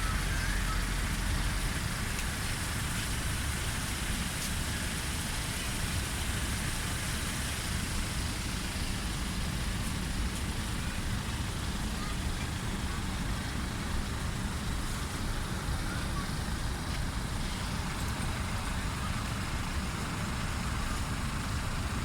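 Steady low engine rumble aboard a busy car ferry under an even wash of wind and traffic noise, with faint voices in the background. A deep hum in it eases slightly about two seconds in.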